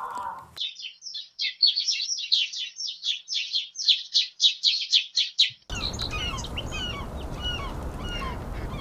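Birds chirping: first one rapid, even series of loud chirps, about four a second. About two-thirds of the way through it cuts to scattered, fainter chirps from several birds over a steady background hiss.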